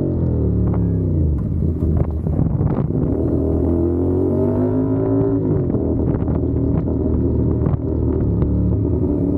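CFMOTO 450SR's parallel-twin engine and exhaust under way, the engine note falling as the bike slows during the first second or two, then running at fairly steady revs with small rises and dips. A second drop in revs comes about five and a half seconds in.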